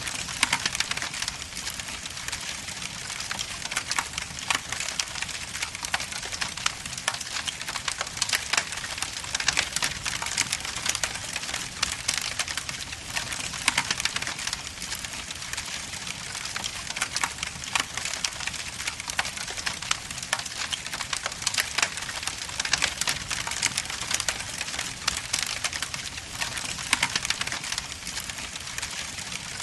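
Wood logs burning in a fireplace, crackling and popping continuously with many sharp snaps over a steady hiss.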